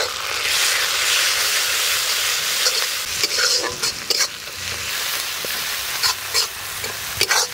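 Fried onion, ginger-garlic paste and freshly added ground spices sizzling in hot oil in a kadai while a spatula stirs them: a loud, steady frying hiss with a few sharp scrapes of the spatula against the pan.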